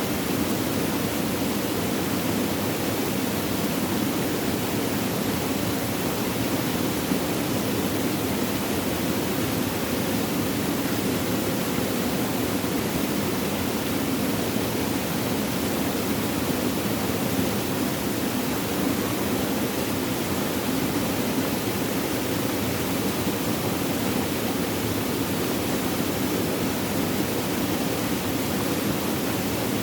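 Flowing water rushing steadily, an even, unbroken noise with no splashes or drips standing out.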